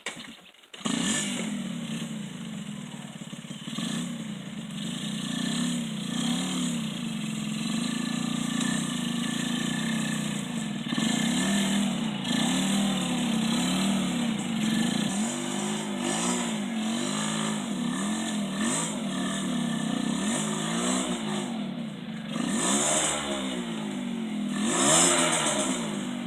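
Motocross bike engines running and revving over and over, the pitch rising and falling every second or so. The sound cuts in suddenly just under a second in.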